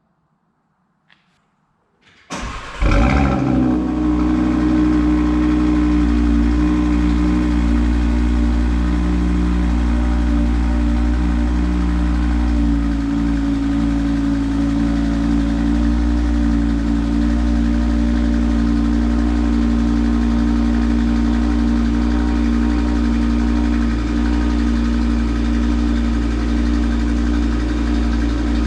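2018 Audi TT RS's turbocharged 2.5-litre five-cylinder engine, without a petrol particulate filter, cold-started: after a couple of seconds of quiet and a small click, it cranks and catches with a loud flare of revs, then settles into a steady cold idle.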